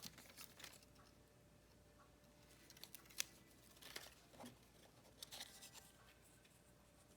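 Near silence, broken by faint rustles and a few light clicks of paper pieces being handled.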